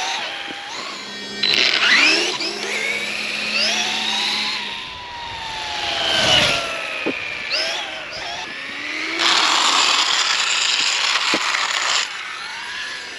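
Brushless electric motor of a Losi Promoto RC dirt bike whining, its pitch rising as it revs and then falling away as it slows. A few seconds of hissing noise follow near the end.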